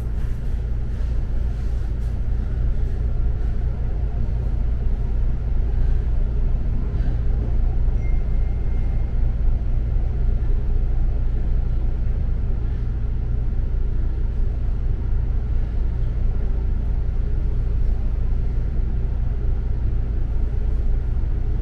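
Steady low rumble of a double-decker bus heard from inside the cabin while it drives along, engine and road noise with no break. A short, faint high beep sounds about eight seconds in.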